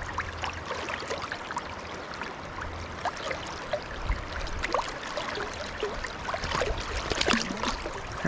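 Fast river water flowing and gurgling close by, with many small splashes and drips.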